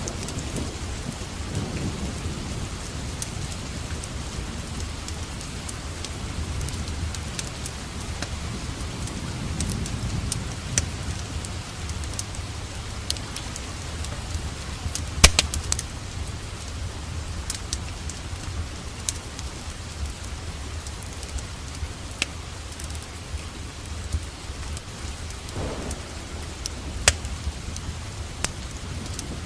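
Steady rain with a low rumble of thunder, over a wood fire in a fireplace crackling and giving sharp pops now and then; the loudest pops come about halfway through.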